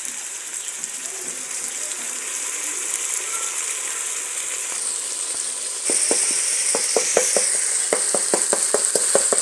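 Tomatoes and onions frying in oil in a pot, a steady sizzle. About six seconds in, the sizzle grows louder and fills with quick irregular pops and crackles.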